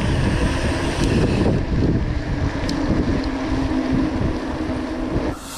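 Wind rumbling on an action camera's microphone while mountain biking, with a faint steady low hum from about two seconds in until near the end.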